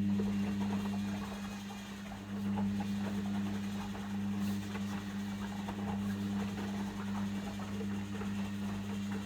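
Logik L712WM23 washing machine running: a steady, fixed-pitch low hum with a crackling, splashing rattle of water and parts over it.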